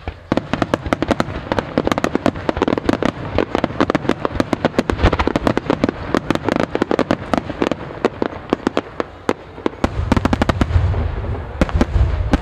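Fireworks display: a rapid, dense string of sharp cracks and pops from a rapid-fire barrage of fireworks. About ten seconds in, deep booms of aerial shell bursts join in.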